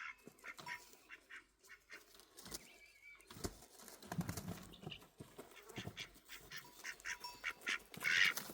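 Birds calling in short, repeated calls.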